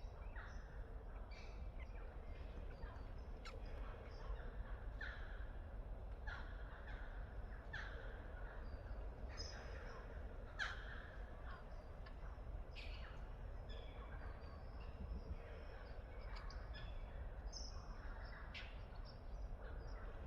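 Birds calling in woodland: short, sharp calls repeated about once every second or so, with fainter higher chirps between them, over a steady low rumble.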